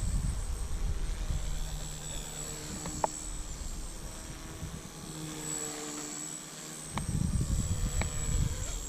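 Blade 150 S micro electric RC helicopter flying, its motor and rotor whine holding a steady pitch that shifts up and down as it manoeuvres. Low rumbling noise comes and goes, and a few sharp clicks are heard.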